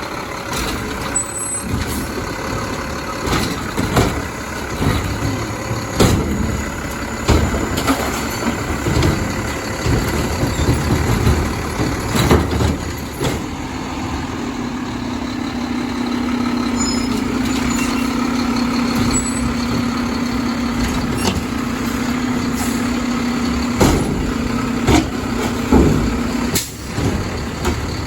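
Mack garbage truck with a McNeilus body running on its collection route, with repeated clanks and knocks and air-brake noise. About halfway through, a steady drone sets in, then cuts off suddenly shortly before the end.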